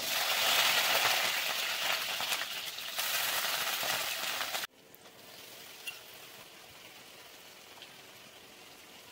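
Chopped shallots sizzling loudly in hot oil in an aluminium kadai, growing louder again about three seconds in. About halfway through the sizzle cuts off suddenly, leaving only a faint hiss with a few small ticks.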